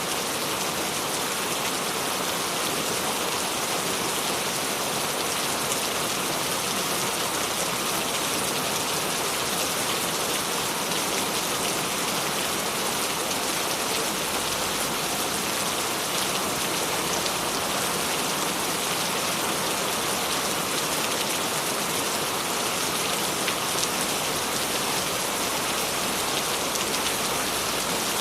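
Steady rain falling on a surface, a dense, even patter of many drops with no let-up.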